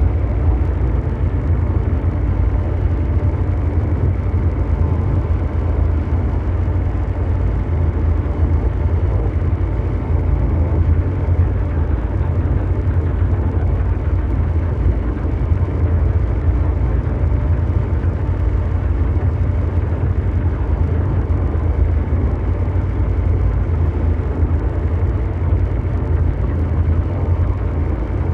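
Synthesized ambient mechanical drone in the manner of brown noise: a steady, unchanging deep rumble with a faint hum riding above it, like a huge engine running.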